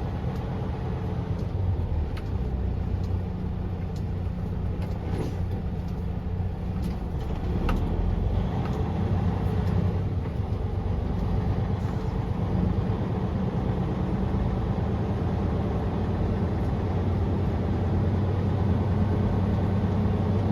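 Semi truck's diesel engine running under way, heard from inside the cab as a steady low drone. It gets louder about eight seconds in, with a few light clicks and rattles.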